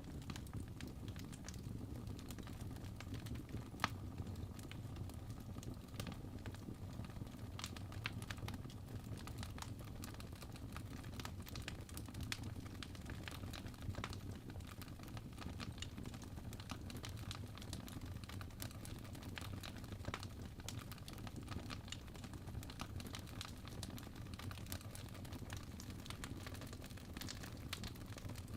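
Crackling wood fire: irregular snaps and pops over a steady low rumble of burning.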